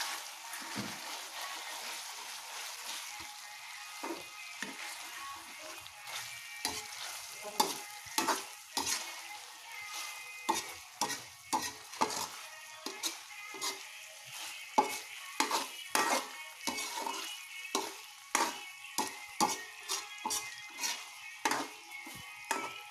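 Food sizzling in hot oil in a pan while a spatula stirs it. The utensil knocks and scrapes sharply against the pan, more often from about seven seconds in.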